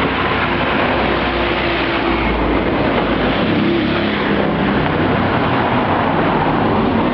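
Steady, loud engine noise with a low rumble and faint steady droning tones, no distinct events.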